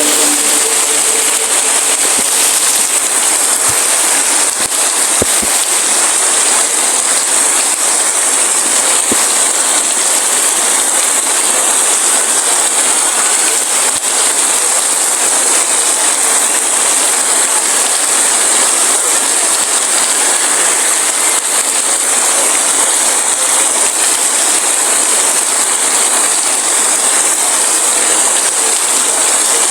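Heavy rain falling steadily, a dense even hiss with no thunder, and a few small clicks of drops about four to five seconds in.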